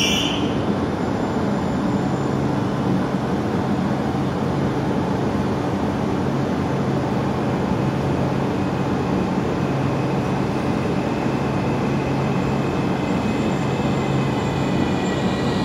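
Electric trains at a platform: a steady rumble and low hum from a standing double-deck train while a second train runs in. Faint high wheel squeal begins near the end as the arriving train brakes.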